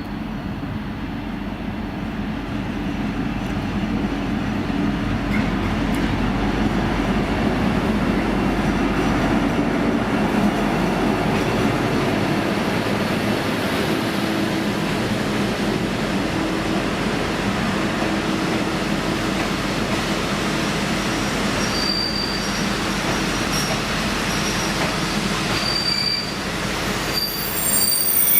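V/Line N class diesel locomotive hauling a passenger train, its engine running with a steady low hum that grows louder over the first few seconds and then holds, together with the rumble of the train. Short high-pitched squeals from the wheels or brakes come in several times near the end.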